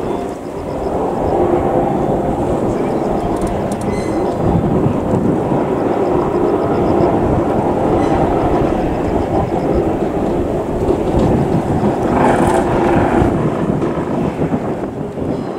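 Steady rumble of a train running on rails, with a brief brighter burst about twelve seconds in.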